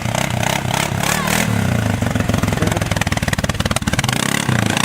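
Single-cylinder four-stroke ATV engine running at low speed as the quad is moved, its revs rising and falling slightly.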